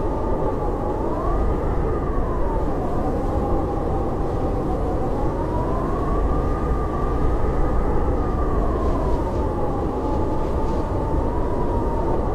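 Howling blizzard wind: a steady low rush with a thin whistling howl over it that slowly rises and falls in pitch.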